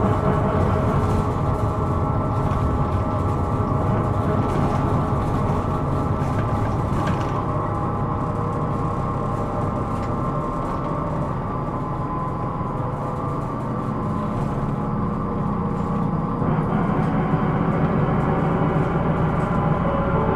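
Hino Rainbow II (SDG-KR290J1) diesel bus heard from inside while under way: a steady low drone with a cluster of ringing, whining tones above it, the running noise the recording labels as abnormal (異音). About sixteen seconds in the sound gets brighter and a little louder.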